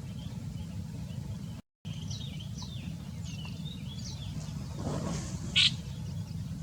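Small birds chirping in quick, repeated high, falling notes over a steady low rumble, with one loud sharp call about five and a half seconds in. The sound cuts out briefly about two seconds in.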